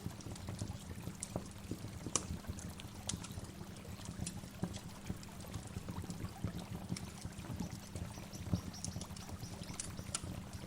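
A waterfall: steady rushing, splashing water with a deep low rumble and many small, sharp splashes on top.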